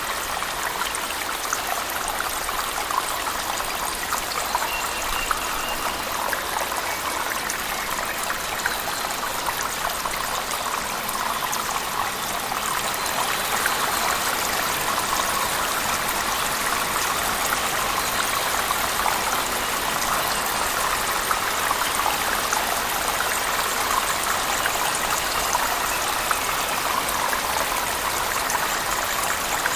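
Waterfall splashing in a cave, mixed with heavy rain, as a steady wash of water with fine patter throughout; it grows slightly louder about halfway through.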